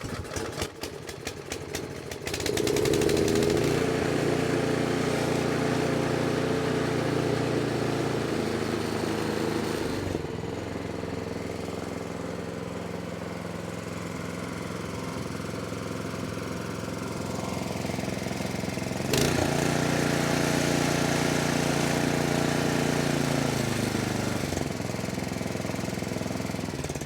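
Snowblower's small engine catching with a few uneven firing pulses, then running steadily after a carburetor cleaning. Its speed drops for a while in the middle, picks back up, then falls away and the engine shuts off near the end.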